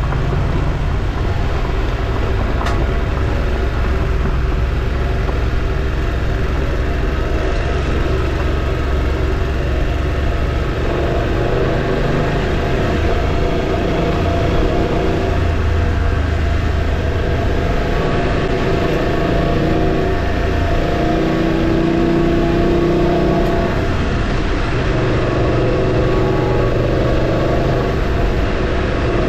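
Motorcycle engine running under way, its pitch rising and falling with changes in speed, over a steady rush of wind and road noise.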